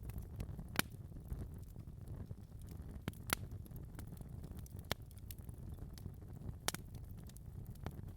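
Wood fire crackling in a fireplace: a low steady rumble of burning with sharp irregular pops and snaps, a few louder pops standing out.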